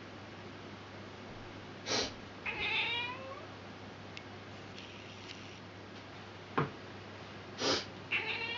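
A grumpy domestic cat gives a short hiss, then a drawn-out, slightly falling, complaining meow. Later there is a sharp click, a second hiss and the start of another meow near the end.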